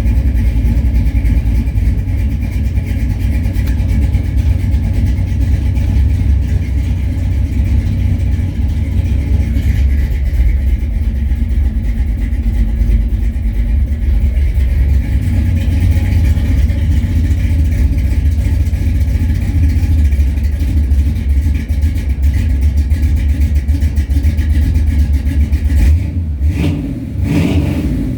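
Old Chevy truck engine running steadily after a cold start. Near the end the sound dips briefly, then rises in pitch as the engine is blipped.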